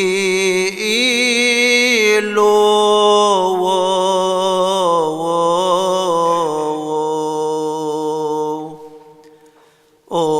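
A solo male voice sings a melismatic Coptic Orthodox hymn, holding long notes and decorating them with quick wavering turns. Near the end it fades out briefly for a breath, then comes back in.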